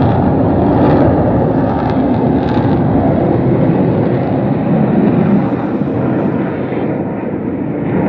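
U.S. Navy Blue Angels F/A-18 Hornet jets flying over in formation: loud, steady jet engine noise that eases slightly near the end.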